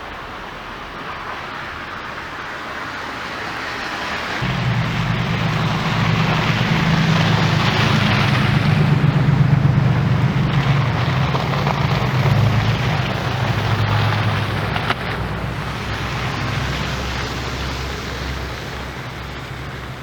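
A motor vehicle passing on a snowy road: a rushing hiss of tyres that swells, joined about four seconds in by a low engine hum, loudest around the middle, then slowly fading.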